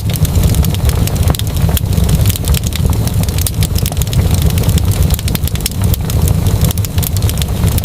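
Wood fire crackling, with many quick sharp pops and snaps over a steady low rumble.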